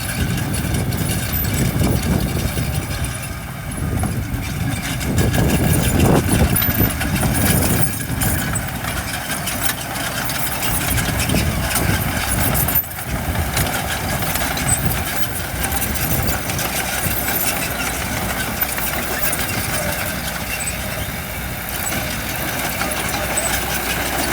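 Heavy-equipment diesel engines running steadily at a worksite, swelling louder for a few seconds about a quarter of the way in, with a brief sudden drop about halfway.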